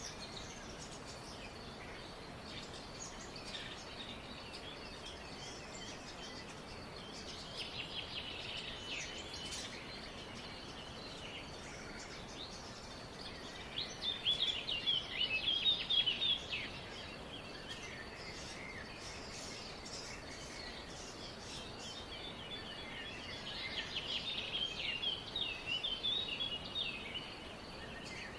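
Small songbirds chirping and twittering in quick bouts over a steady faint background hiss; the busiest bursts come about halfway through and again near the end.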